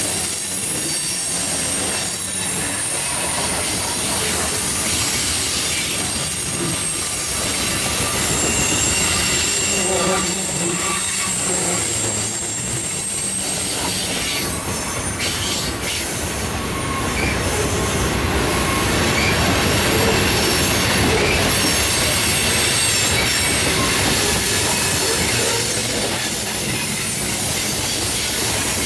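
Freight train of covered hopper cars and tank cars rolling past, with a steady rumble of steel wheels on rail and high-pitched wheel squeal from the cars taking the curve. A few sharp clacks come about halfway through.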